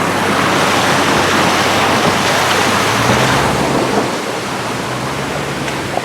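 Vehicle driving on a gravel road: loud, steady road and tyre noise over a low engine hum that shifts in pitch about three seconds in.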